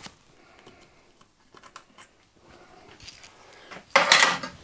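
Hand tools being handled at a workbench: light metallic clicks and ticks, then a loud, short rattling clatter about four seconds in.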